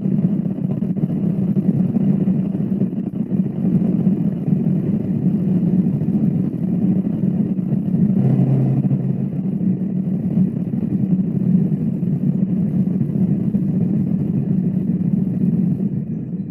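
A continuous low rumble, steady throughout and beginning to fade near the end.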